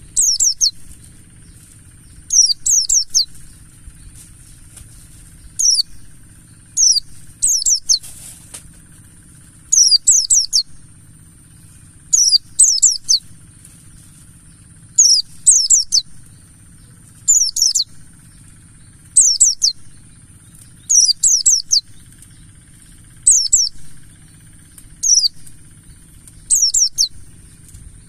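Buxtoni white-eye (pleci) calling: short bursts of two to four quick, high, falling chirps, repeated every second or two, over a steady high hiss.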